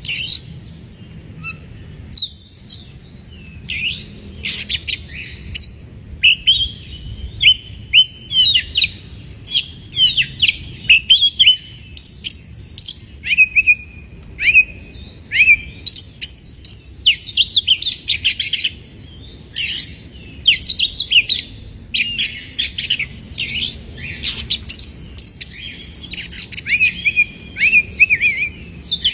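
Oriental magpie-robin (kacer) singing a loud, varied song: a near-continuous string of short whistles, trills and sharp chirps, with brief pauses between phrases.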